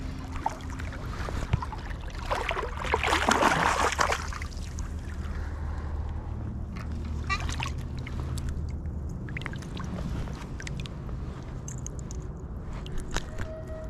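Wind buffeting the microphone as a steady low rumble, with a louder rushing noise about two to four seconds in and scattered clicks and taps near the end.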